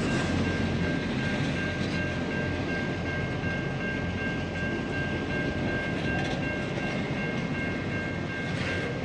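Freight train wagons rolling past at close range: a steady rumble of wheels on the rails, with a steady high-pitched ringing tone over it.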